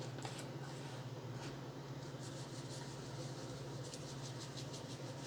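Lime pepper seasoning shaken from its shaker: a few light ticks, then a run of faint quick ticks, about three or four a second, from about two seconds in. A steady low hum underneath.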